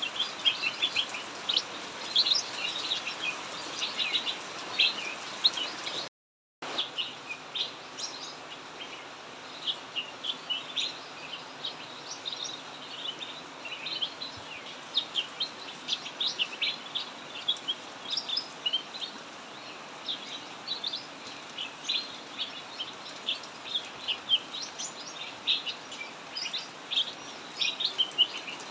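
Cucak mini songbird chirping continuously in rapid strings of short high notes, over the steady hiss of heavy rain. The sound cuts out completely for about half a second around six seconds in.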